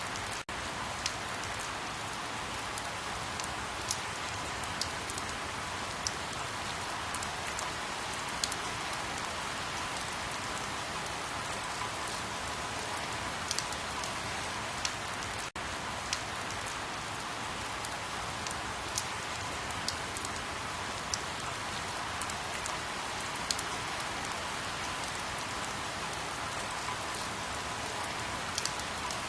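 Steady rain falling, an even hiss with scattered sharper drop ticks. The sound cuts out for an instant twice, about half a second in and about halfway through.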